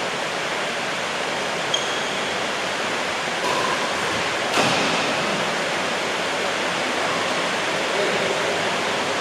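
Heavy rain pouring down in a steady, dense hiss, with a short sharp knock about halfway through.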